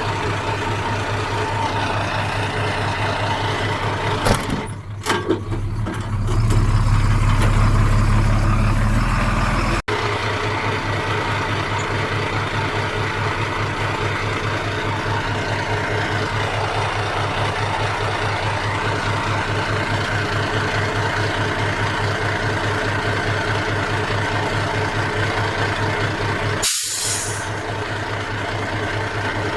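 Heavy diesel engine running steadily with an even low pulse, louder and deeper for a few seconds about a quarter of the way in. Near the end comes a short hiss of released air.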